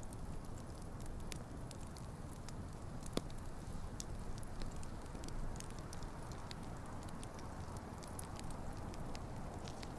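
Wood campfire burning: a steady low rumble of flames with frequent sharp crackles and pops from the burning logs, one louder pop about three seconds in.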